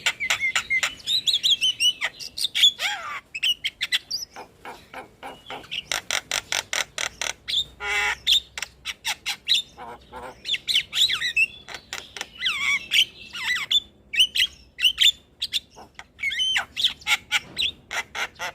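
Javan mynas (jalak kebo) calling: runs of sharp rapid clicks mixed with harsh squawks and short whistled notes that bend up and down, with a buzzy rasping note about eight seconds in.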